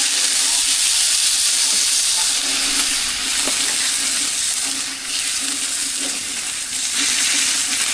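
Food sizzling on a hot griddle, a steady hiss.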